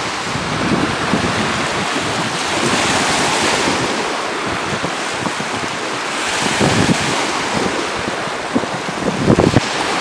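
Waves breaking on a Lake Huron beach, a steady wash that swells and eases, with wind buffeting the microphone in gusts.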